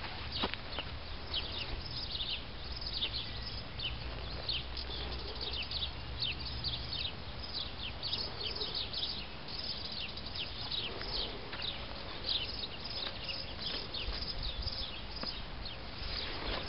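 Many birds chirping: short, quick falling calls overlapping without a break, over a low steady rumble.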